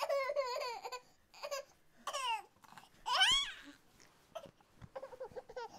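A young child's high-pitched wordless vocalizing in several short bursts: wavering cries and squeals that glide up and down in pitch, the loudest about three seconds in.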